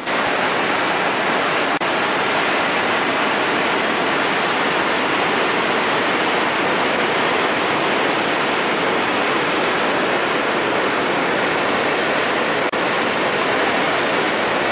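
Swollen, flood-high creek water rushing in a loud, steady roar of white-noise-like water sound, with two very brief dropouts.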